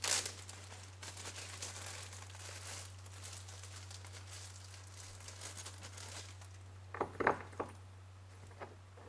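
A parts bag crinkling as it is handled for about six seconds, then a few short knocks around seven seconds in, over a steady low hum.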